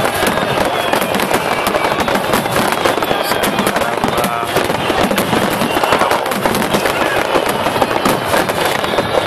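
Aerial firework shells bursting over a lake in a dense, unbroken run of bangs and crackles.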